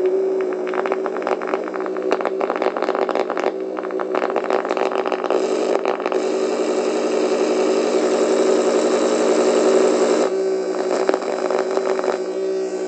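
Electronic sounds from a breadboard sound circuit: a buzzy droning tone with fast crackling clicks over the first few seconds, then a harsher, noisier buzz from about six to ten seconds in, dropping back to the droning tone near the end.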